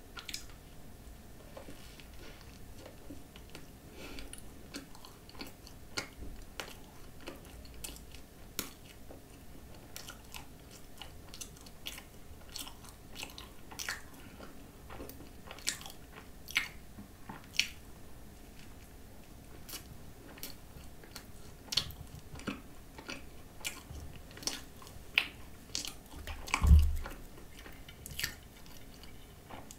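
Chewing and biting into a whipped-cream croissant coated with chilled, set coconut spread, with sharp crunchy clicks scattered throughout. A louder, deeper thump comes near the end.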